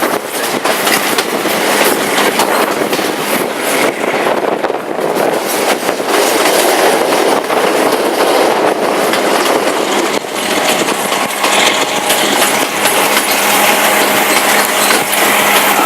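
Passenger train running along the track, heard from on board: a steady loud rumble and rattle of the coaches with frequent clicks of the wheels over rail joints.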